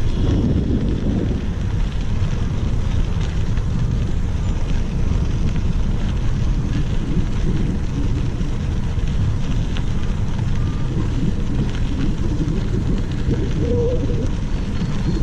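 Wind rumbling steadily on the microphone of a moving bicycle, a low buffeting noise.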